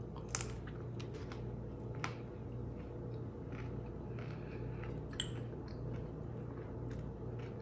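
A person chewing a mouthful of raw broccoli slaw: faint crunching with a few isolated sharp clicks.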